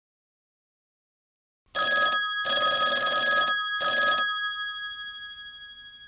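Alarm clock bell ringing in three short bursts, starting a little under two seconds in after a silence, its tone then fading away slowly.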